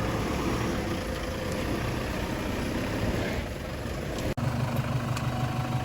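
Jeep Wrangler engine running at low revs as it crawls slowly up a slippery muddy climb. The sound breaks off for an instant about four seconds in.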